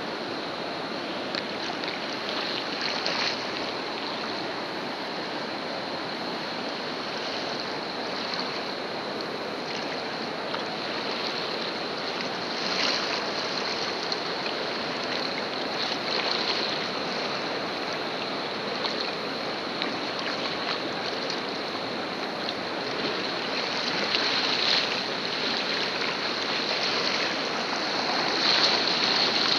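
Whitewater of the Colorado River rushing steadily around a kayak, with louder splashes of waves breaking over the boat and the helmet camera several times.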